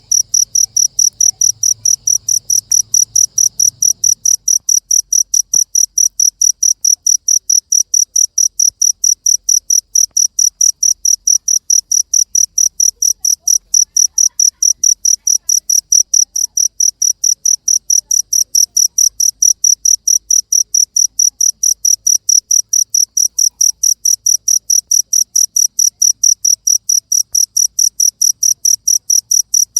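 Cricket chirping in a steady, even rhythm of short high-pitched chirps, about three or four a second.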